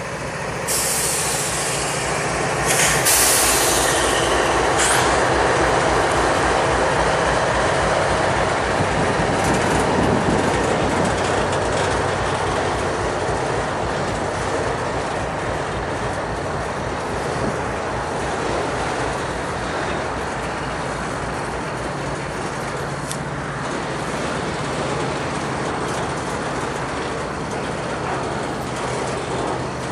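Norfolk Southern diesel locomotives rumble past, then a long train of autorack cars rolls by with steady wheel and rail noise. Short high-pitched bursts come in the first few seconds, when the sound is loudest.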